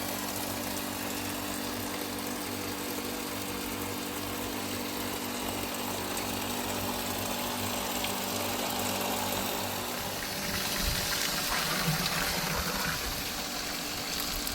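A motor hums steadily and shuts off about ten seconds in, followed by a hiss like running or pouring water.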